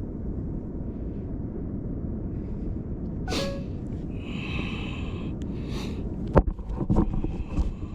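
Steady low rumble of wind and surf on the microphone, with a few short breathy sniffs in the middle and several sharp knocks near the end.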